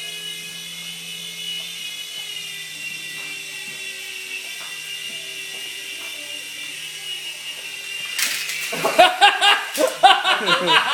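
Electric motors and rotors of radio-controlled micro helicopters giving a steady high-pitched whine that wavers slightly in pitch as they fly. About eight seconds in, loud laughter and voices break in over it.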